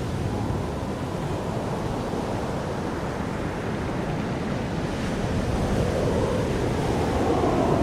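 Jet aircraft rumble with wind on the microphone, growing louder over the last few seconds.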